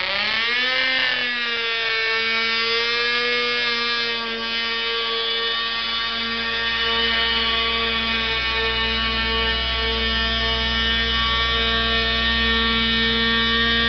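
Pulling tractor's engine at full throttle under load during a tractor pull. Its revs swing up in the first second, then it holds a steady, high-pitched drone, with a low rumble building about halfway through.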